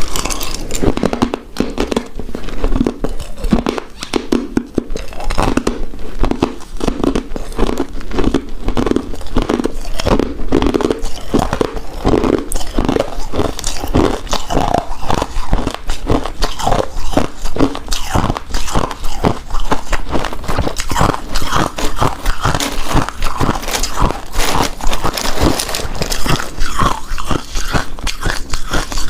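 Close-miked chewing of a soft, chewy pink rice cake coated in shredded coconut, with a dense run of wet mouth clicks and smacks.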